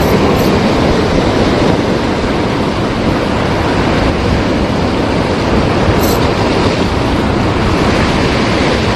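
Big high-tide waves breaking against the shoreline in a loud, continuous rush.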